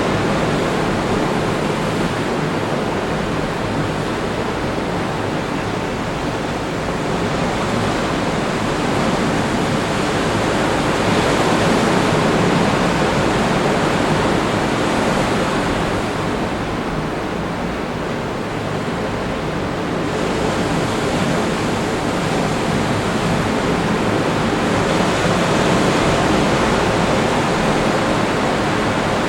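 Ocean surf breaking on a beach: a continuous rushing wash that swells and eases every several seconds as waves come in.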